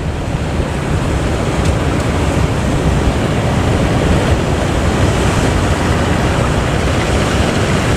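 Steady, loud rush of ocean surf with wind buffeting the microphone.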